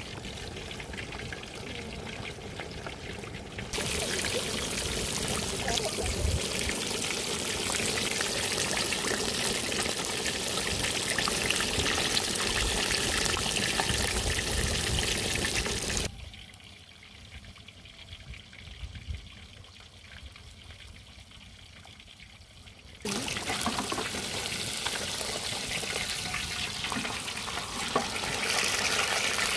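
Steady rushing of water, with no tones in it. It steps up louder about four seconds in, drops much quieter from about sixteen to twenty-three seconds in, then comes back.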